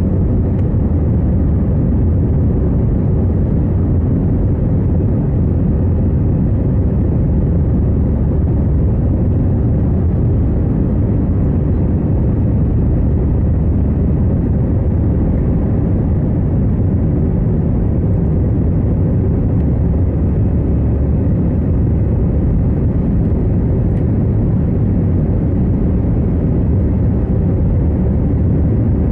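Steady low rumble of a passenger airliner's engines and cabin noise, heard from inside the cabin, even and unbroken.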